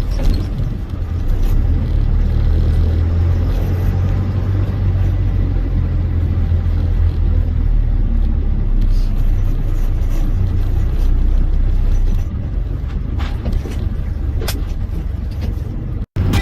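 Truck engine and road noise while driving: a steady low rumble that eases slightly about twelve seconds in, then cuts off suddenly near the end.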